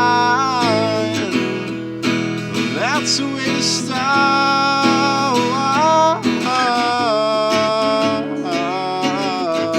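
Acoustic guitar music: strummed chords under a sustained melody line that bends and slides in pitch.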